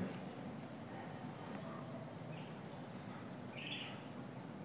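Quiet background ambience with a few faint, short bird chirps, one about two and a half seconds in and another near four seconds.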